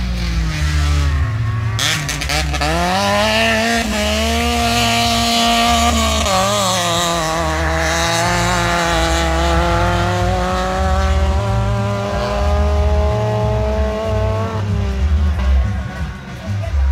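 Rally car engine revving hard as the car accelerates on a dirt course: a sharp crack about two seconds in, then the engine note climbs and holds high with a short wobble around the middle before easing off near the end.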